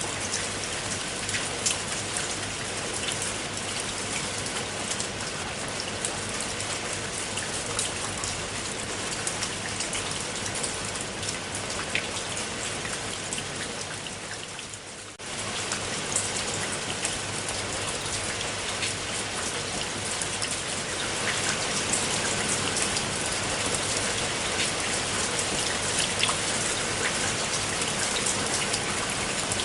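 Steady rain, with many individual drops striking close by. It fades briefly about halfway, comes back at once, and grows a little louder later on.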